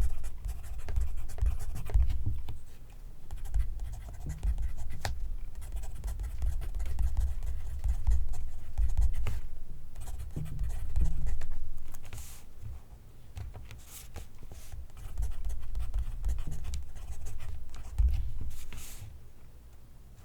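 Pencil writing on paper, close-miked: irregular runs of scratchy strokes, with a few brief sharper swishes, tailing off near the end.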